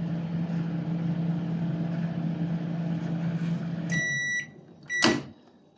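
Versus Trotter microwave oven running its heating cycle on a newly replaced magnetron, a steady hum that stops about four seconds in as the timer runs out. Two high beeps follow, the second together with a sharp click.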